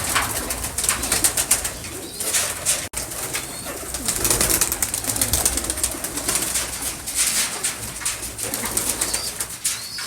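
Domestic pigeons cooing, with many short rustling and scratching noises throughout.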